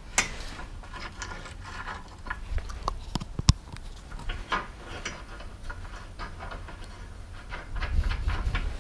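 Steel jig pieces and bolts being handled and fitted against a car subframe: scattered metal clinks and knocks, with one sharp click about three and a half seconds in and a busier run of knocks near the end.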